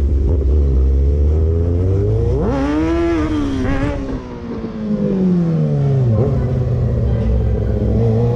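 Motorcycle engine heard from on the bike while riding. It revs up sharply about two and a half seconds in, then its pitch falls slowly as the throttle eases off, settling into a steady run near the end.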